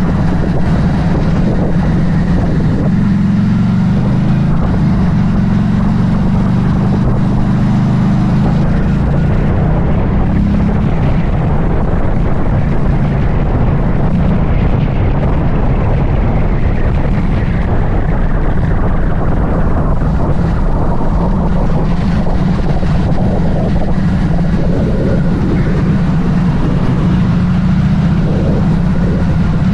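Buccaneer 250i v2 motorcycle engine running steadily while under way, with wind noise on the microphone.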